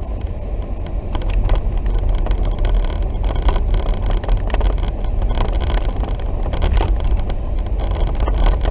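Jeep Wrangler driving on a snow-covered road, heard from inside the cab: a steady low rumble of engine and tyres, with many small crackles over it.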